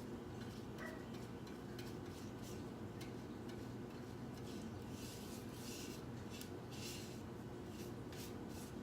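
Paintbrush stroking paint onto a box fan: short, soft, repeated brushing swishes at an uneven pace, over a steady low hum.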